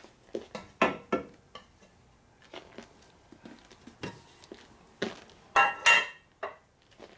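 Metal engine parts being handled on a workbench: scattered clinks and clanks, louder with a short metallic ring about five and a half seconds in.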